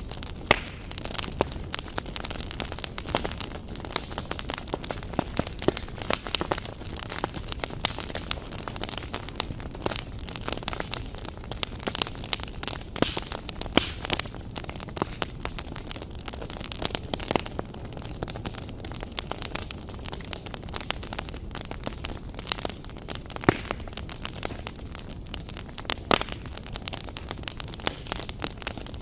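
Fire crackling in a fireplace, with frequent irregular sharp pops and snaps.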